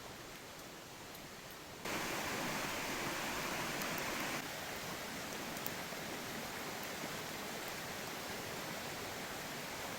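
Steady rushing of a waterfall. It jumps suddenly louder about two seconds in, then drops back a little about four and a half seconds in and stays steady.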